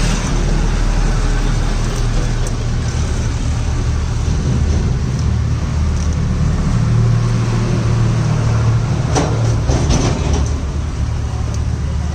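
A vehicle engine running steadily, with a few clicks and knocks about nine to ten and a half seconds in.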